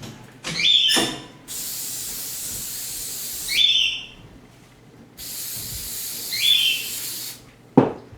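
Aerosol can of spray adhesive spraying in two hissing bursts of about two seconds each, with short squeaky chirps around them and a sharp knock near the end.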